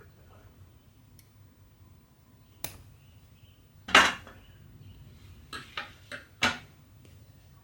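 A handful of sharp clicks and clacks of small hard objects being handled or set down, the loudest about four seconds in and a quick cluster of them near the end.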